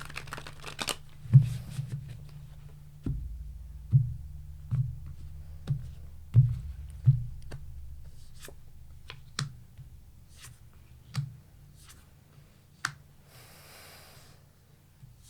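Tarot cards being shuffled and handled on a table: a string of separate taps and flicks, with short rustling shuffles near the start and again near the end.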